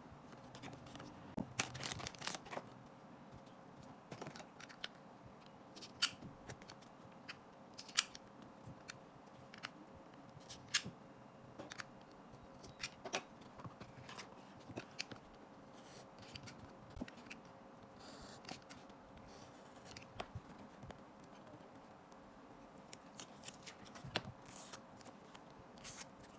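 Cards and their packaging being handled and opened: scattered small clicks and brief rustles, busiest about two seconds in and again near the end, over a faint steady hum.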